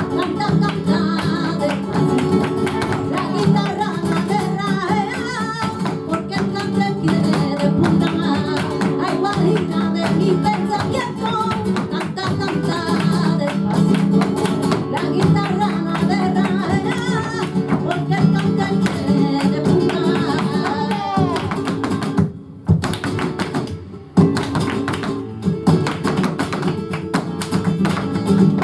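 Live flamenco guajira: a singer over flamenco guitar. About two-thirds of the way in the singing stops, the music briefly drops out twice with sharp percussive strikes, and the guitar carries on.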